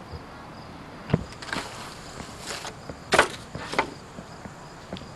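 A few sharp knocks and scuffing sounds, the loudest about three seconds in, over a faint, steadily repeating insect chirp.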